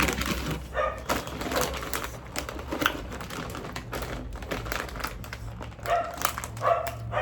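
Close-up eating sounds: rapid crackling, clicking chewing and mouth noises, with a few short vocal bursts near the end.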